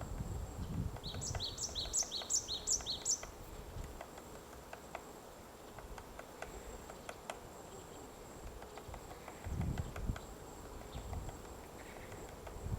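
White-backed woodpecker chiselling out its nest hole in a tree: scattered light taps and wood-chipping knocks, with a short flurry of heavier pecking about ten seconds in and again at the end. About a second in, a bird gives a quick run of about eight high chirps, each falling in pitch.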